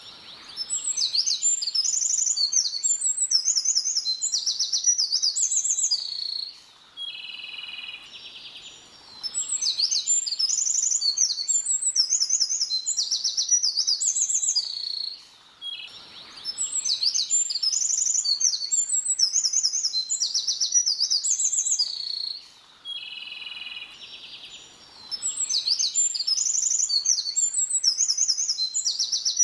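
A small songbird singing: long phrases of rapid high, sweet whistles and quick glides, repeated about every eight seconds with a quieter, lower trill between them.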